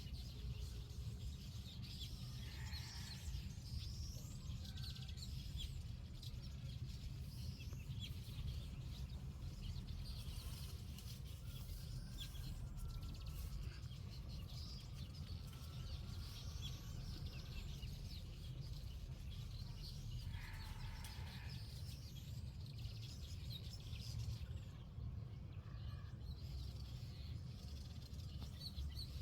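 Birds chirping and calling, many short high chirps with a couple of louder calls, over a steady low rumble.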